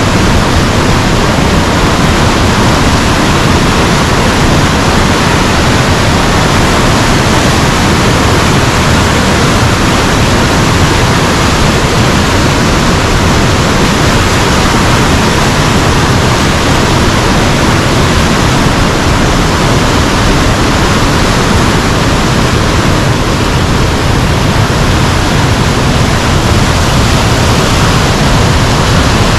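A mountain river rushing: a loud, steady wash of water noise with no breaks.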